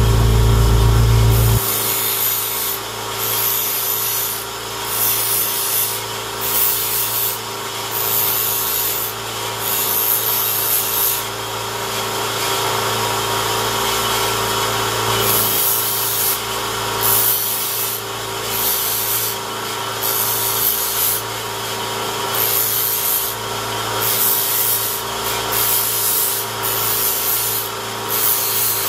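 Knife-sharpening machine running steadily, with repeated rasping passes of a blade against the abrasive, roughly one a second. A loud low rumble cuts off about a second and a half in.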